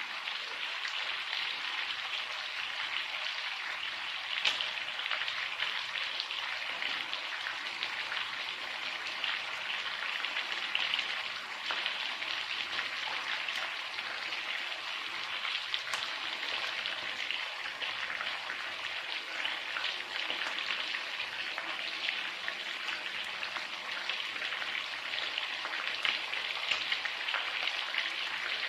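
Food frying in hot oil: a steady sizzle with a few sharper pops.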